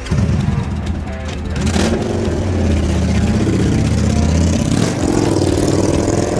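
Victory Gunner's big V-twin motorcycle engine running through a custom set of exhaust pipes. It comes in suddenly at the start, then revs up and down.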